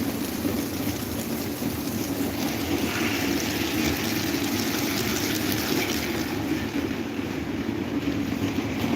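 Electric table fan running steadily: a constant rush of moving air over a steady low hum.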